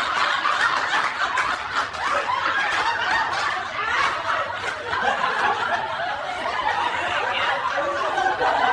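Laughter that goes on without a break.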